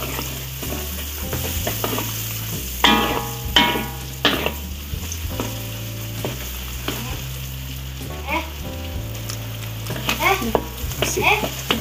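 Butter, shallots, garlic and ginger sizzling in a wok over low heat while a spatula stirs them round. A few short higher-pitched sounds come through, loudest about three to four seconds in and again near the end.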